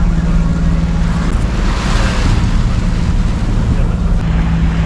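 Yacht under way at sea: a steady low engine hum with water rushing along the hull and wind on the microphone, and a louder wash of water about two seconds in.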